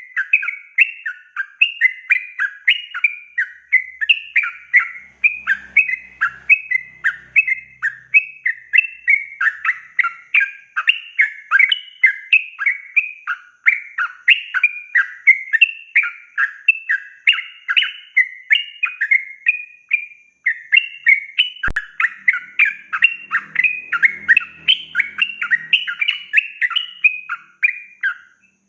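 Yellow-vented bulbul singing a long, unbroken run of rapid bubbly chattering phrases, about three notes a second, stopping just before the end.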